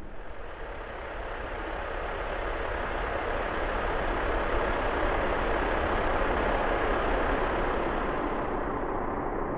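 A dense, even wash of noise with a deep rumble underneath, part of an experimental sound-design composition. It swells slowly to a peak past the middle and eases off near the end, with two faint high thin tones on top.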